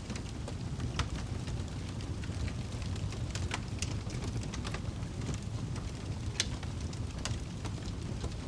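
Wood fire crackling in a fireplace: scattered sharp pops and snaps, the strongest about a second in and just past six seconds, over a steady low rumble.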